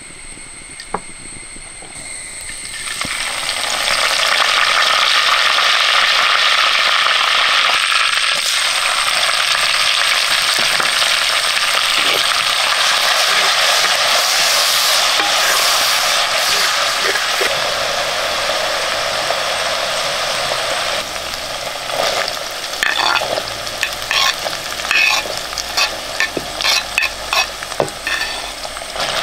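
Ingredients going into hot oil in a pan start to sizzle about three seconds in, and the frying sizzle then holds steady and loud. From about twenty-two seconds a spoon scrapes and knocks against the pan over a quieter sizzle as the food is stirred.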